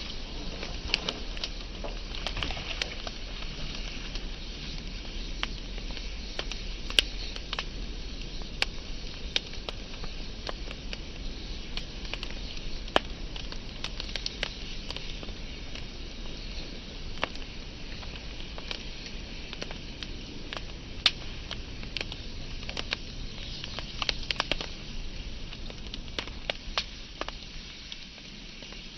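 Burning wood fire crackling: a steady soft hiss with frequent irregular crackles and pops, and a few sharper, louder snaps among them.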